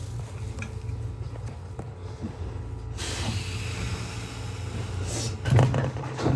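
Nishitetsu 600 series train carriage with a steady low rumble. A hiss starts suddenly about halfway through, and a few loud clunks come near the end.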